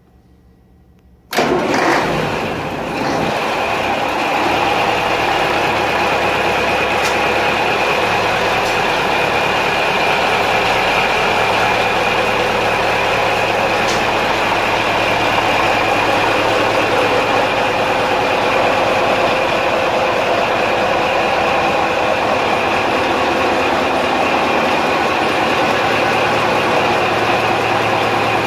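Scania DSI14 V8 marine diesel engine starting about a second in: it catches at once with a brief surge, then settles into steady, even running.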